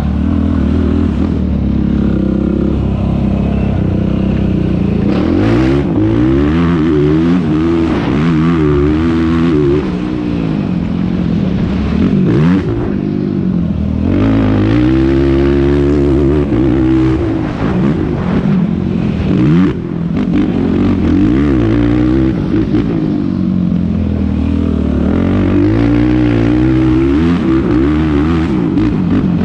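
Yamaha YFZ450R quad's single-cylinder four-stroke engine under race load, its revs climbing and dropping again and again through gear changes and throttle on and off, with a few brief clattering knocks.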